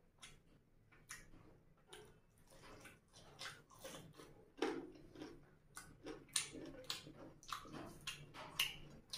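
Close-miked chewing and wet lip-smacking of someone eating rice and curry with the fingers: a string of short smacks and clicks that grows busier and louder from about three seconds in.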